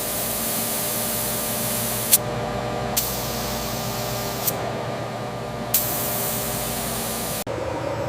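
A steady, loud spraying hiss over a faint machine hum, with a few sharp clicks, cutting off suddenly near the end.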